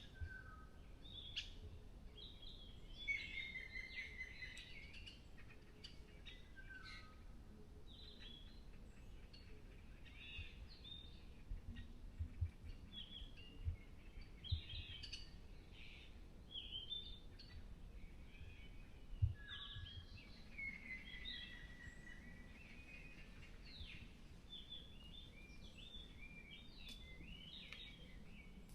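Several birds singing and calling in a forest, with short chirps and phrases overlapping. A longer whistled phrase comes twice, a few seconds in and again about twenty seconds in. A faint low rumble runs underneath.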